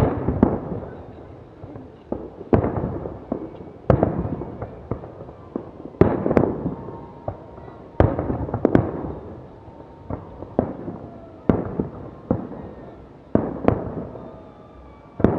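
Fireworks salute: a series of loud aerial shell bursts, one about every one to two seconds, each bang echoing away before the next.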